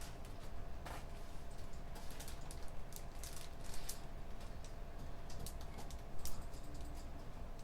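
Computer keyboard typing: keys clicking in irregular, scattered bursts, over a steady low room hum.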